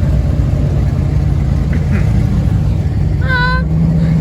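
Car engine idling with a steady low rumble. About three seconds in, a brief pitched tone with a slight waver sounds for about half a second over it.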